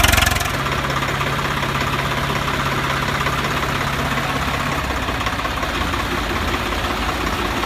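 Tractor diesel engine running steadily with a low, even knock, joined by a low steady hum that drops out about five seconds in.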